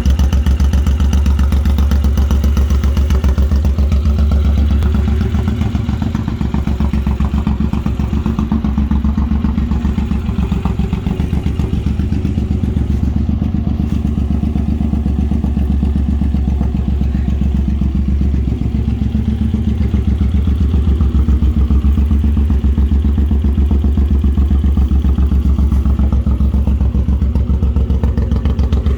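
Suzuki Intruder M1800's 1,783 cc V-twin engine idling steadily through a hard-chrome 2-into-1 exhaust, a deep even pulse. It is slightly quieter for a while in the middle.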